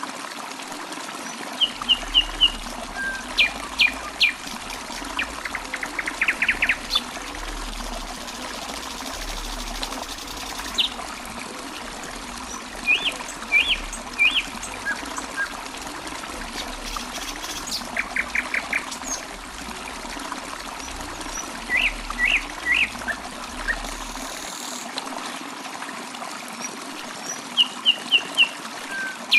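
Water trickling steadily, with small birds chirping in quick runs of short, high notes every few seconds.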